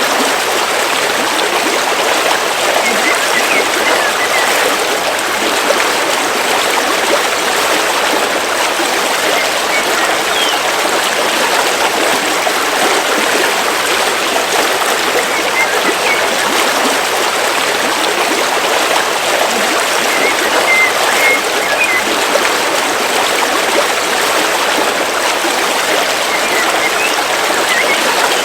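River water flowing steadily, with a few faint bird chirps here and there.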